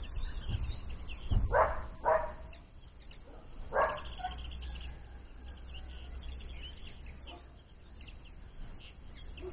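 Small birds twittering throughout, high and thin, with three short, loud animal calls in the first four seconds, the last one about a second and a half after the second.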